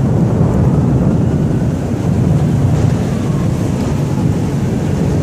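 Thunder rumbling in a long, steady, deep roll, with no sharp crack.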